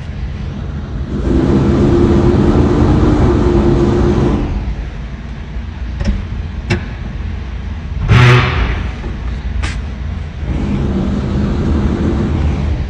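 Old winch truck's engine running, rising twice to a louder, steady higher pitch for a few seconds at a time, with a few sharp clicks and a short loud clank about eight seconds in.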